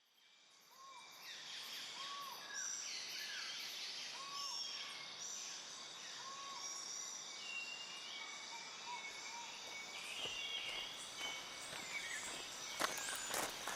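Rainforest ambience fading in: several birds calling, one repeating a short arched whistle about every two seconds, over a steady high drone. Near the end, sharp footsteps begin.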